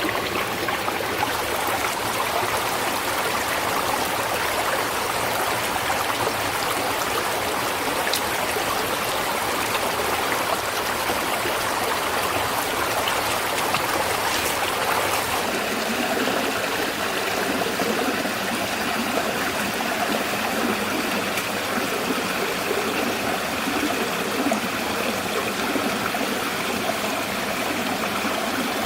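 Water running in a stream, a steady rush; about halfway through the sound shifts abruptly to a different mix, as at a cut to another spot along the water.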